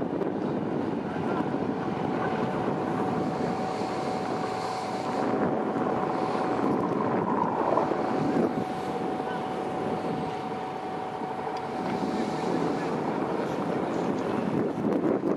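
Boat engine running steadily, with wind buffeting the microphone; a thin steady tone holds through most of it.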